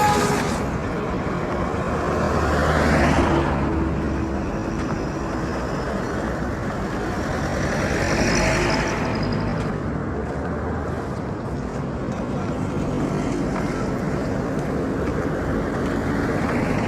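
Road traffic: steady motor noise, with two vehicles passing, the first about three seconds in and the second about eight seconds in.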